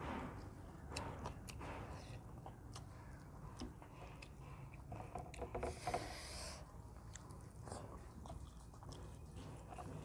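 Close-up chewing and mouth sounds of a person eating a mouthful of rice and chicken curry, with small wet clicks throughout. About six seconds in there is a brief, louder rustle as the fingers mix rice and curry on a brass plate.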